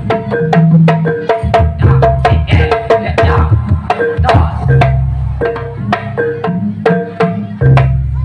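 Jaranan ensemble music: hand-played kendang drums beating a fast, steady rhythm under tuned metal gong-chimes struck in an even pattern of about four notes a second, with deep drum strokes recurring.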